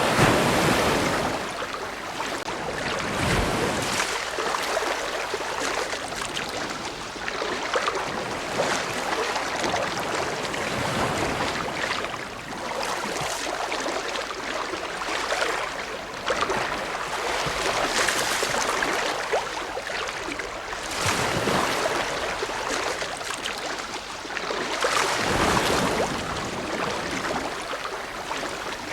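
Ocean waves washing in, a steady rush of surf that swells and eases every few seconds.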